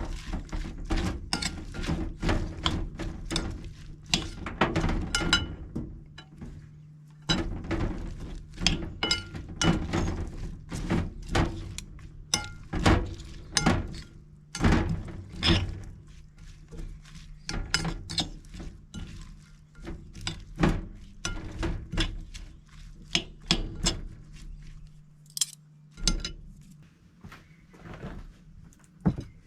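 Irregular knocks, taps and light clinks of hand work with tools and parts, several a second with short gaps, over a faint steady low hum.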